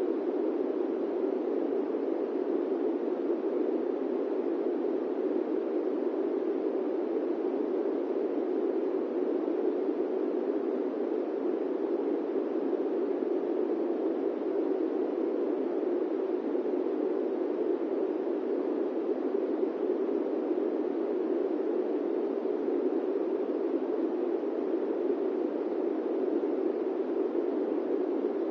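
Steady airplane-cabin white noise: an even, unchanging rushing hush weighted low in pitch, with no breaks or other events.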